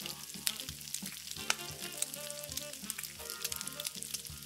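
Mutton and chopped radish sizzling in hot oil in a pot, with many sharp crackles, as a wooden spoon stirs them.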